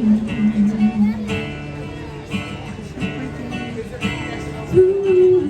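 Live band playing: strummed acoustic guitar under a woman singing long held notes, her voice stepping up to a higher held note near the end.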